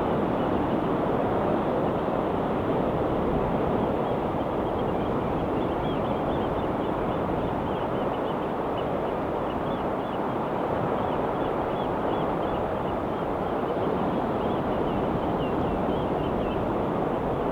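Ocean surf washing steadily against the shore, a continuous even rush without distinct wave crashes, with a faint run of short high chirps through most of it.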